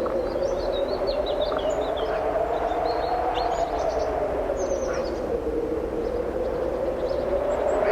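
Strong wind blowing steadily, its hollow tone slowly rising and falling, with small birds chirping over it in short quick runs, busiest in the first couple of seconds.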